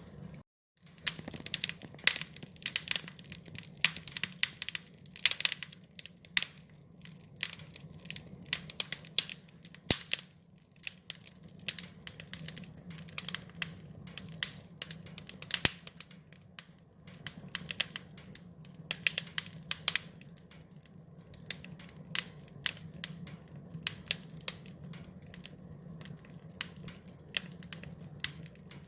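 Wood fire crackling: dense, irregular sharp pops and snaps over a steady low rumble. The sound drops out completely for under a second just after the start.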